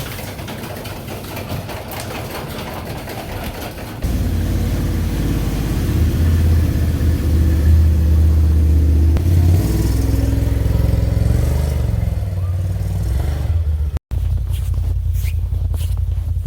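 Steady rushing noise, then from about four seconds in a vehicle engine running with a strong low hum, swelling for a few seconds before settling to a steady run. A brief sudden cut comes near the end.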